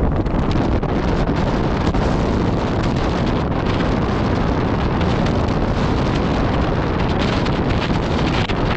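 Strong storm wind buffeting the microphone in a loud, steady rush, with the high winds of an oncoming thunderstorm.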